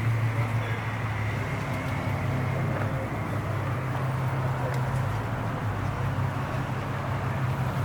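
Car engine idling steadily, a constant low hum under a hiss of background noise.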